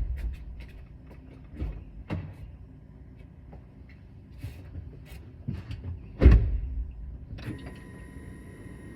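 Car door and cabin handling on a 2022 Porsche Macan just before a cold start: scattered clicks and knocks, with a door shutting in one solid thump about six seconds in. About a second later a faint steady high-pitched electronic tone starts, before the engine is started.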